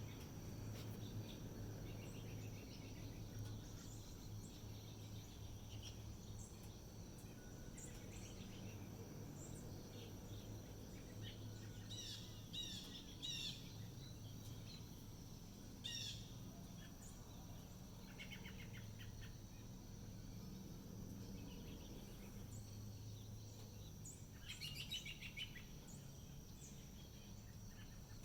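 Birds chirping in short clusters of rapid high notes, the loudest bursts about halfway through and again near the end, over a low steady hum.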